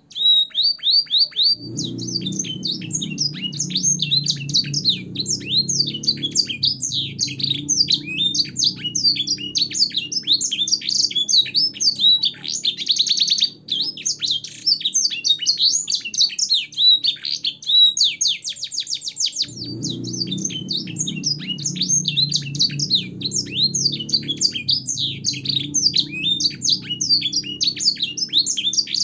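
Domestic canary singing a long, unbroken song of fast trills and quick repeated high notes, with phrases borrowed from blackthroat and sanger songs, as used for training young canaries. A low background rumble comes in twice, for several seconds each time.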